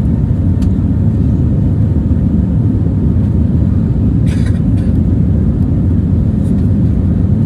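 Steady low cabin rumble of an Airbus A320neo with CFM LEAP-1A engines, engine and airflow noise heard from inside the passenger cabin. A brief rattle comes about four seconds in.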